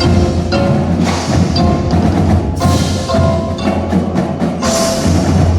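Indoor winter percussion ensemble playing: drums and struck percussion with pitched mallet keyboard notes over them.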